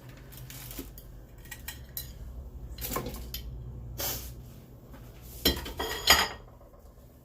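Cookware and metal utensils clinking and knocking, a handful of separate knocks with the two loudest about five and a half and six seconds in.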